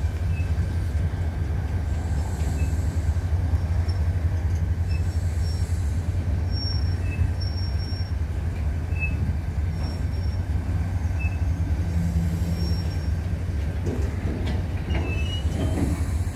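Freight train of autorack cars rolling slowly through a rail yard: a steady low rumble, with short high-pitched wheel squeals every second or two.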